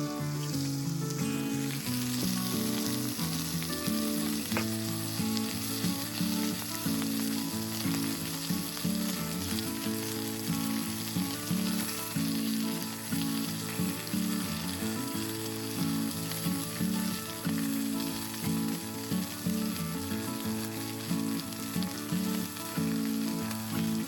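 Food sizzling and frying in a hot pan, a steady hiss with background music underneath.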